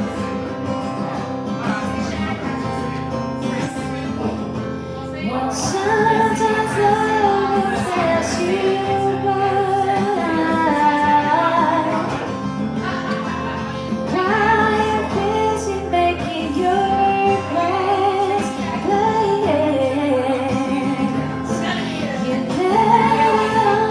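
Live acoustic guitar accompanying a singer; the guitar plays alone for about five seconds before the voice comes in with the melody.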